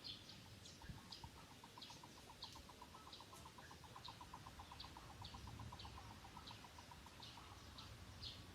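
Faint bird calls: short high notes repeated about twice a second, over a steady, rapid, lower-pitched trill that starts about a second in and stops near the end.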